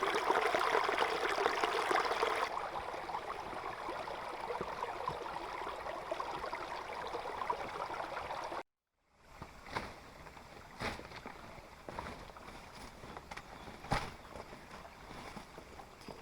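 Running, pouring water, louder for the first two and a half seconds and then steady. It cuts off abruptly to silence; after that comes a quieter background with a few light knocks.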